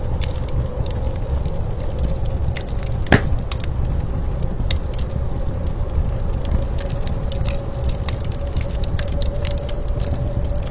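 Wood fire crackling with scattered small pops and one louder snap about three seconds in, over the steady low rumble of blizzard wind and a faint held whine.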